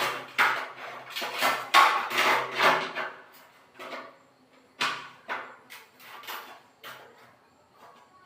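Metal parts clattering and knocking as they are handled: a dense run of knocks for about three seconds, then a few separate knocks further apart.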